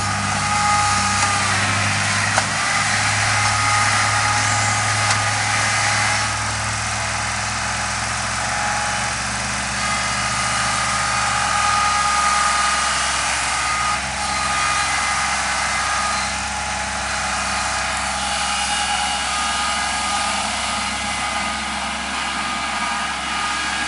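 Kubota L3301 tractor's three-cylinder diesel engine running steadily under load as the tractor works to climb out of deep mud with its front loader and hydrostatic drive. The engine note changes about halfway through.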